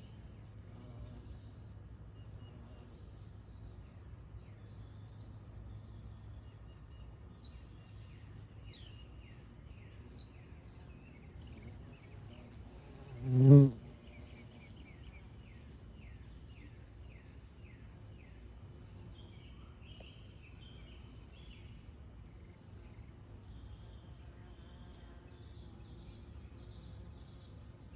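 A bumblebee buzzing close past the microphone once, about halfway through: a loud low hum that swells and fades within about a second. Behind it, a steady high pulsing insect trill and repeated bird chirps.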